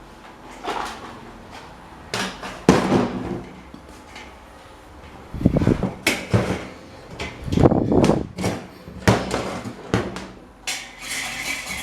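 Irregular knocks and clatter of metal parts of an old electric desk fan being handled, with the loudest clunks about halfway through. A steadier scraping noise sets in near the end.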